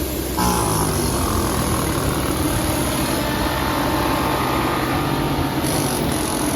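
A heavy machine's engine running steadily, its note shifting about half a second in and then holding.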